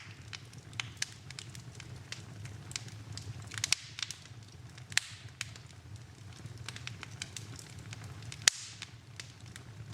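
Wood fire burning in a fireplace, crackling with irregular sharp pops over a steady low rumble of flame. The loudest pop comes near the end.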